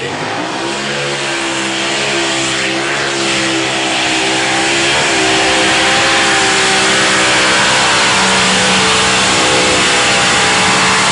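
Mini unlimited class pulling tractor's engine running flat out under load during a pull. It rises in pitch at the start, dips briefly about five seconds in, then holds a steady high note.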